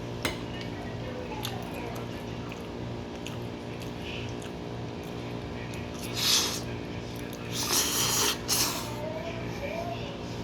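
Background music with a steady beat. About six seconds in, and again from about eight seconds, there are short, loud, noisy eating sounds: pasta being slurped and chewed close to the microphone.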